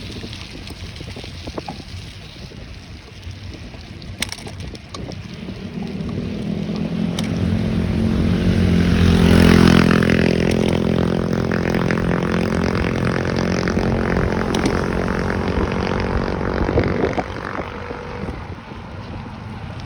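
A motor vehicle approaching and passing close by: its engine hum builds, is loudest about halfway through, then fades away. Wind buffets the microphone throughout.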